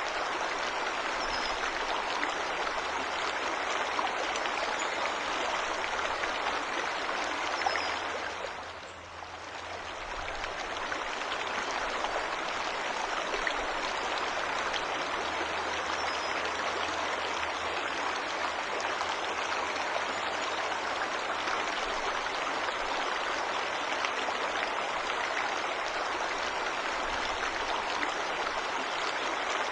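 Waterfall's rushing water, a steady even hiss. It dips briefly about a third of the way in, then swells back to its full level.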